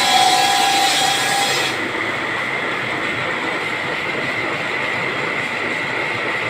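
Machinery in a plastic-bead workshop running steadily. In the first second or two a loud hiss with a whine over it cuts off suddenly.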